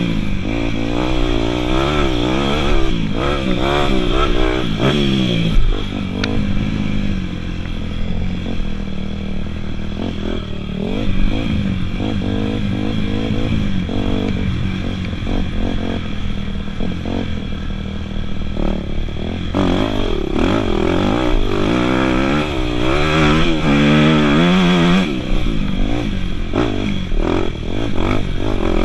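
Dirt bike engine revving up and down repeatedly. It is loudest for the first few seconds and again from about two-thirds of the way through, with steadier, lower running between.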